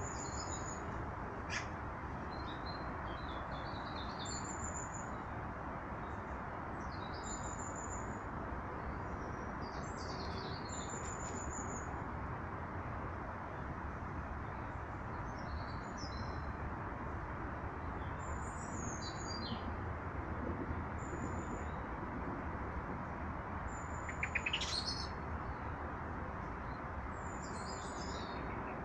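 Small birds calling at feeders: short, high, thin chirps repeated every second or two, over a steady background hiss.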